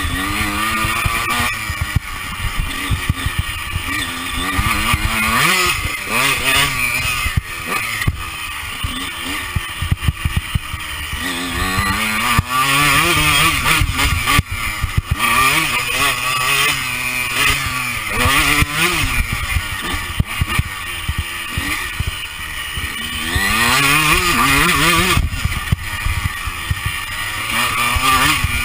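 Honda CR125's two-stroke single-cylinder engine revving hard, its pitch climbing and dropping again and again as the rider accelerates, shifts and backs off around a motocross track. Wind buffets the chest-mounted microphone underneath.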